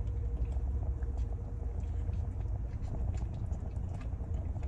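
Chewing a mouthful of burger, with small scattered wet mouth clicks, over a steady low rumble in a car cabin like an idling engine.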